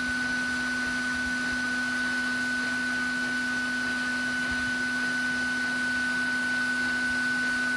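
Vacuum running steadily, sucking up bees: a constant low hum and a higher whine over a hiss of rushing air.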